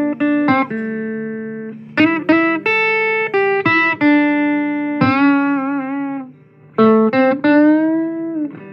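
Blues guitar playing a lead phrase of picked single notes, with vibrato on held notes about five seconds in and a slight bend near the end.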